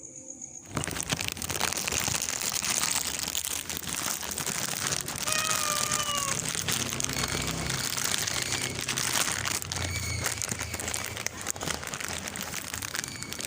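Continuous crinkling, crackling noise made of many fine clicks, starting about a second in, with a short, faint falling tone a few seconds later.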